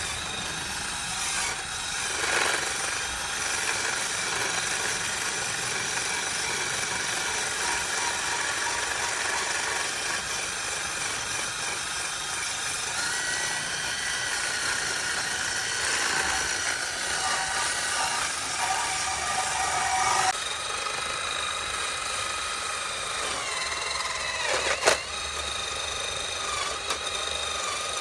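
Handheld electric power tool running with a steady high whine and a rasping, scraping sound as it works a surface; its pitch shifts a few times and dips briefly under load about 25 seconds in.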